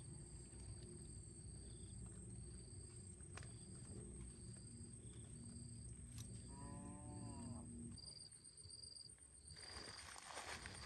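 Faint outdoor insect chorus: a steady high buzz with a shorter chirp repeating about once a second, over a low rumble. About seven seconds in, an animal gives a single call lasting about a second.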